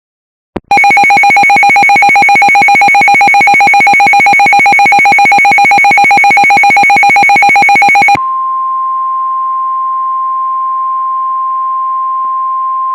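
A weather-alert signal. First a loud, rapidly pulsing electronic alarm beep for about seven seconds. Then, about eight seconds in, it switches to the steady single-pitch NOAA Weather Radio warning alarm tone near 1050 Hz, which signals that a new warning is about to be read.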